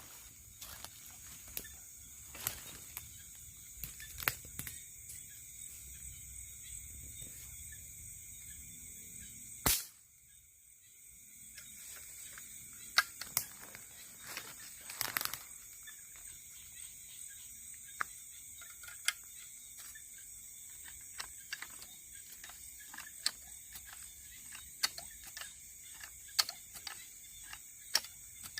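A night chorus of crickets and other insects keeps up a steady high chirring, with scattered faint clicks and rustles throughout. About ten seconds in there is one sharp click, and the sound briefly drops away for about a second before the chorus returns.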